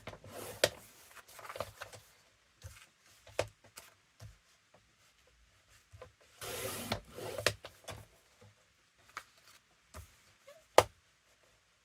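Paper being handled and cut on a paper trimmer: rustling and sliding sounds with scattered clicks, a longer rasping stretch about six and a half seconds in, and one sharp click near the end.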